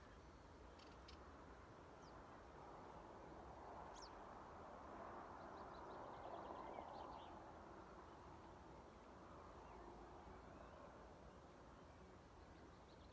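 Faint open-field ambience with a low hiss that swells a little midway, and scattered faint short bird calls: a couple of high notes near the start, a brief high falling call about four seconds in, and a run of faint ticks a little later.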